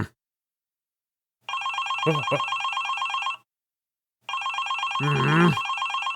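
Telephone ringing twice, each ring a steady trilling tone about two seconds long, with a gap of about a second between them.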